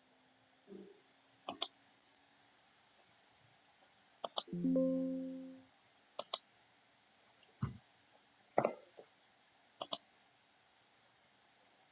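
Computer mouse clicking, mostly in quick double clicks, several times over a quiet room. About four and a half seconds in, a short pitched tone sounds and fades away over about a second.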